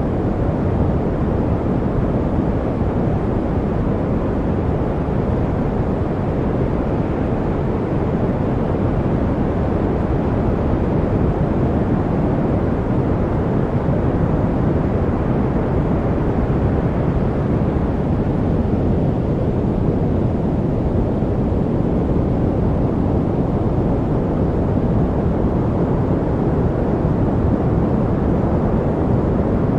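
Steady, unchanging study-noise track: a low, dark noise with most of its weight in the bass and little hiss, closer to brown noise than to true white noise.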